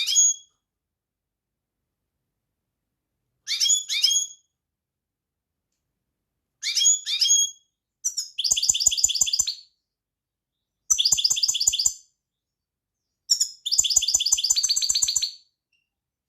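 European goldfinch singing. Three short chirpy phrases a few seconds apart are followed by three longer, rapid trilled phrases of about one to two seconds each.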